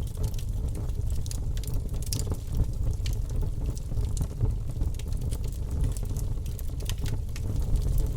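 Logs burning in a fireplace: a steady low rumble of the flames with scattered crackles and small pops from the wood.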